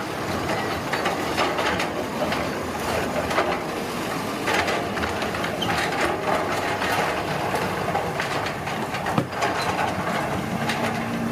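Heavy road-construction machinery working: engine noise under frequent metallic clanks and knocks, with a steady low engine tone coming in near the end.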